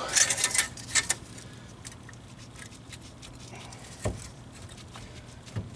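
Light clicks and rattles of tools and parts being handled during wheel hub removal, then a single dull knock about four seconds in, over a steady low hum.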